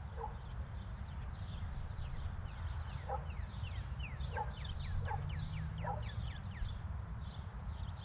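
Birds chirping in a run of quick falling whistles, thickest in the middle, with a few short lower calls over a steady low rumble.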